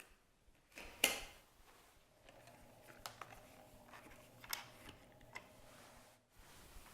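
Handling noises from the vacuum's cleaner head: a sharp knock about a second in, then several light clicks spaced through the rest, over a faint low hum.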